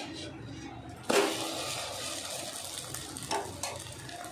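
Kadhai pitha batter cake flipped over with a metal spatula. It lands in the hot oiled kadhai about a second in with a sudden burst of sizzling that settles into a steady sizzle, with a short spatula tap near the end.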